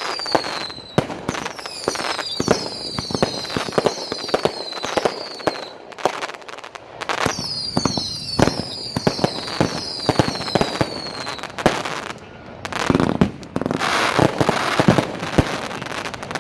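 'Seattle Rains' multi-shot fireworks cake firing: a rapid string of launch shots and bursts, many with short whistles falling in pitch. About twelve seconds in, a dense stretch of crackling breaks out among the shots.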